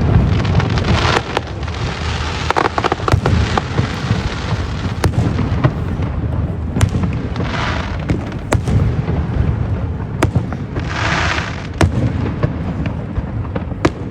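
Fireworks show: a steady run of booming shell bursts with many sharp cracks at irregular intervals, and hissing crackle bursts twice, near the middle and about three quarters through.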